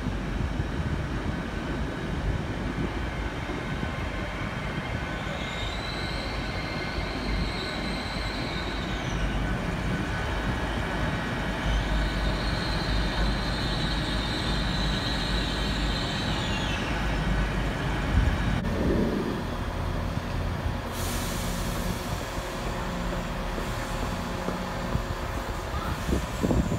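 Train moving through the station: a steady low rumble, and twice a high metallic wheel squeal that rises, holds for a few seconds and falls away. Later comes a burst of hiss.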